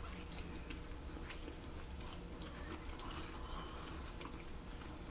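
Two people chewing mouthfuls of grilled kabob, faintly, with scattered small wet clicks from their mouths.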